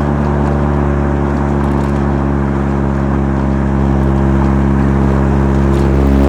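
Mazda RX-7 FC3S's twin-rotor 13B turbo rotary engine running at a steady speed through a Knight Sports Legal Sport aftermarket muffler, heard from inside the moving car. The exhaust note holds an even pitch and grows a little louder about four seconds in.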